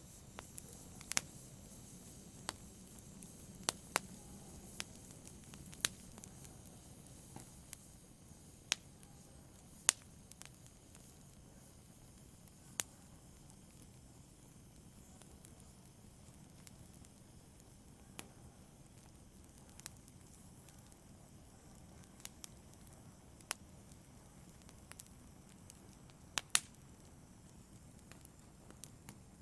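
Wood fire burning in a fireplace: a low steady hiss with sharp, irregular crackles and pops every second or two, one of the loudest about three-quarters of the way in.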